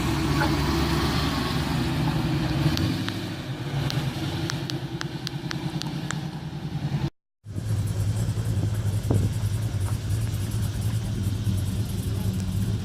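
Car engine idling with a deep, rapidly pulsing exhaust and a few light ticks. The sound drops out briefly about seven seconds in, then carries on steadier and heavier.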